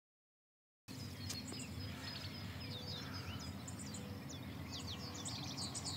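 Songbirds chirping, many short quick high chirps in close succession, over a low steady outdoor background noise; it starts about a second in after total silence.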